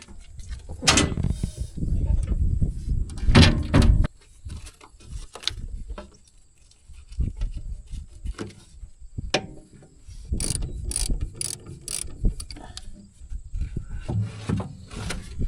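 Irregular metal clicks, clanks and thumps of tools and hardware being handled while a new battery is fitted to a farm machine, with a quick run of four sharp clicks about ten seconds in.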